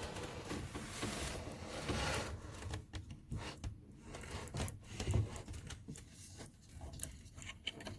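Scraping and rustling for about the first two seconds, then a run of scattered light clicks and knocks: tools and parts being handled at a workbench-like tray.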